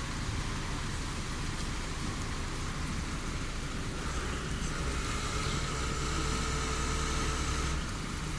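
Heavy rain falling steadily, with a vehicle engine running low underneath. A faint steady whine comes in about halfway through and stops shortly before the end.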